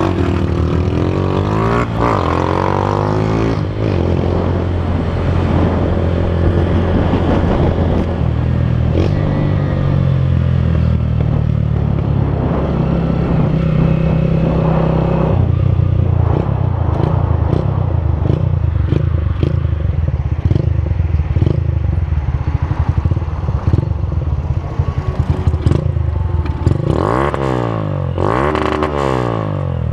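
Motorcycle engine running, its pitch stepping up and down with the throttle, with two quick rises and falls in pitch near the end.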